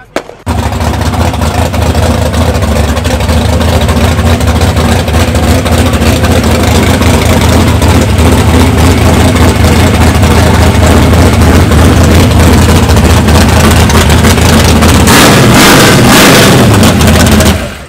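Small-block V8 of a Chevrolet Malibu drag car running loud and steady at low revs, swelling briefly near the end before it cuts off.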